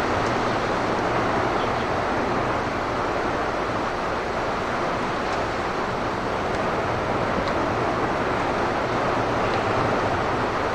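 Steady rushing roar of strong wind, unbroken and even in level, with no separate impacts standing out.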